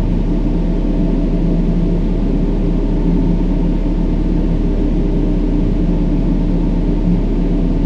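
Steady brown noise, a deep, even rumbling hiss, with a few faint low tones held underneath.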